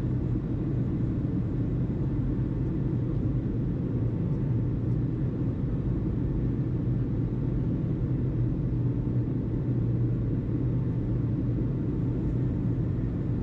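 A steady low rumble of engine noise with a constant low hum in it, unchanging throughout; the tower radio is silent between calls.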